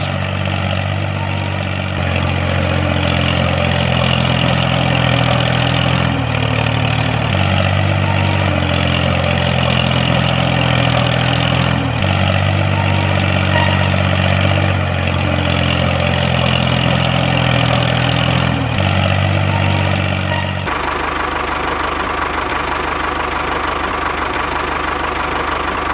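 Tractor engine running steadily, its pitch stepping up and down every few seconds, turning to a rougher buzz near the end.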